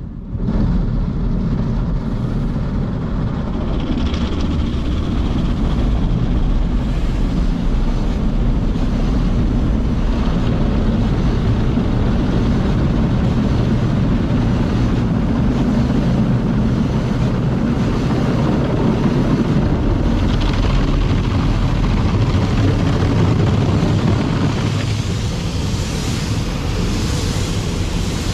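Daifuku TWINFECT FORCE gantry car wash machine running, a loud steady rumble of motors, brushes and spray that starts suddenly just after the opening and holds throughout.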